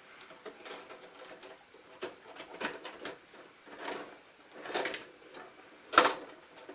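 Handling noises: irregular soft clicks and rustles, with one sharp click about six seconds in.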